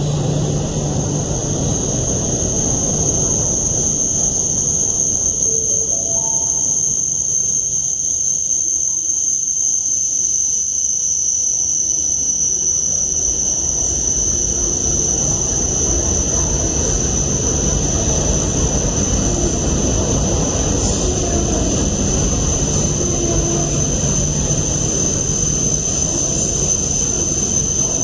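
E5 series Shinkansen train pulling slowly into the platform, its low running rumble building from about halfway through. Over it runs a steady high-pitched whine, and about six seconds in comes a short chime of four notes stepping upward.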